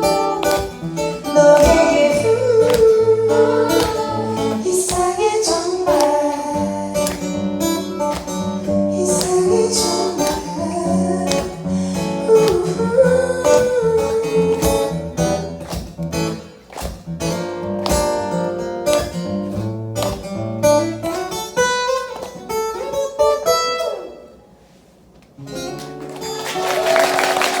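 Live song with acoustic guitar playing through its closing instrumental section. The music ends about 24 seconds in, and after a short pause the audience starts applauding.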